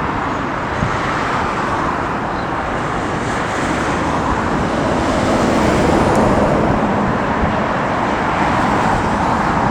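Airbus A380 on final approach, its jet engines making a steady, even noise that grows a little louder as it nears, with strong wind buffeting the microphone.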